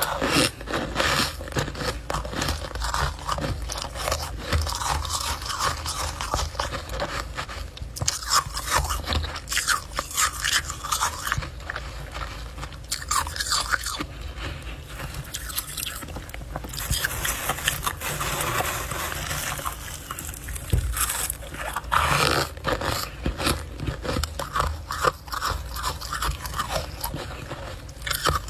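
Refrozen freezer frost being bitten and chewed, with a dense, irregular run of crunches.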